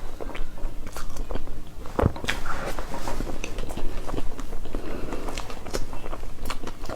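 Close-miked eating of soft cake: irregular wet mouth clicks, biting and chewing sounds, with one louder click about two seconds in.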